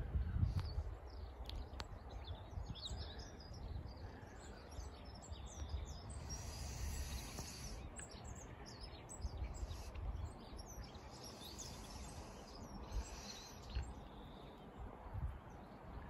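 Songbirds chirping and singing in quick, repeated short calls over a low, uneven rumble.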